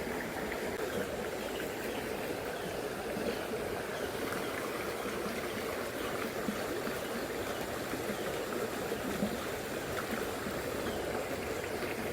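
Shallow, fast river current running over stones, a steady babbling rush of water.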